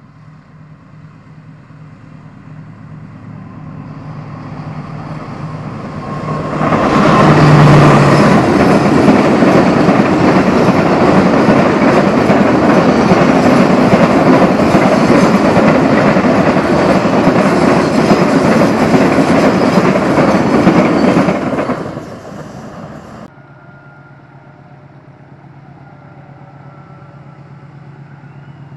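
A CC206 diesel-electric locomotive hauling a train of tank wagons past at close range: the sound builds for several seconds, then a loud, steady din of wheels running over the rails lasts about fifteen seconds before falling away, with an abrupt drop a little later. After that, a quieter, steady sound of a train coming from far off.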